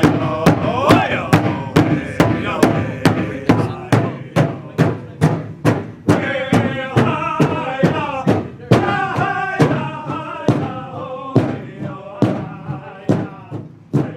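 Pow-wow drum struck in a steady, even beat of a little over two strokes a second, with singers chanting over it in wavering, high-pitched voices.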